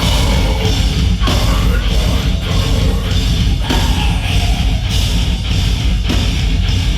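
Live heavy metal band playing at full volume: distorted guitars, bass and pounding drums, with shouted vocals.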